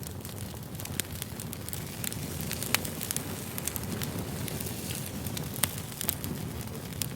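Campfire crackling: frequent sharp pops and snaps of burning wood over a steady low rush of flames.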